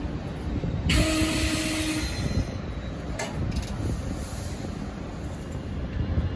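NJ Transit Comet V passenger coaches rolling past on the rails with a steady low rumble of wheels. About a second in comes a burst of hiss with a low whine for about a second, and a few sharp clicks follow around three seconds in.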